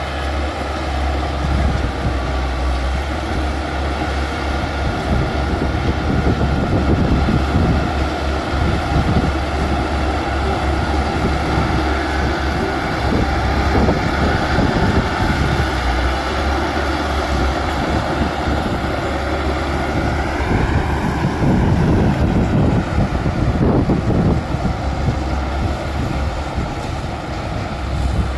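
Bulldozer's diesel engine running steadily with a heavy rumble. Its pitch rises about two-thirds of the way in, then eases back.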